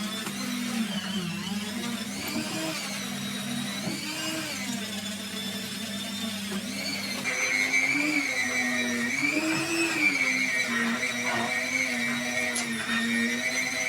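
Small electric tool motor running with a steady whine, its pitch sagging and recovering several times as it is pressed into the work; a higher, steady whine joins about halfway through.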